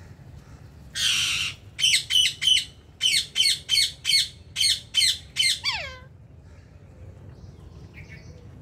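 Indian ring-necked parakeet squawking: one harsh screech about a second in, then a run of about ten sharp squawks, roughly three a second, ending in a falling call near six seconds.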